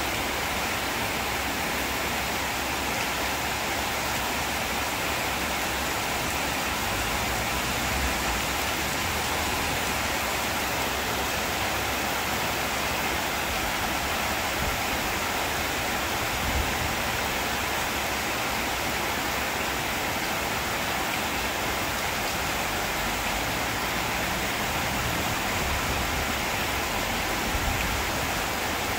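Steady rain falling on leaves and corrugated metal roofing, an even hiss. A few soft low thumps come through it.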